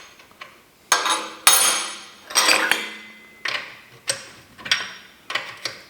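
Tools and steel hydraulic-jack parts knocking together: a run of about eight sharp metallic clinks, each ringing briefly, the loudest in the first half, as a hose fitting's retaining nut is worked on by hand.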